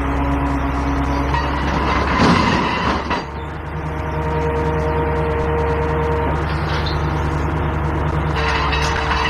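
Heavy diesel truck engine running steadily, with a whining tone that changes pitch a couple of times and a brief louder rush of noise about two seconds in.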